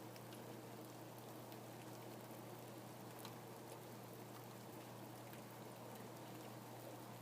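Steady, faint rain falling, with the ticks of single drops scattered through it, over a low steady hum.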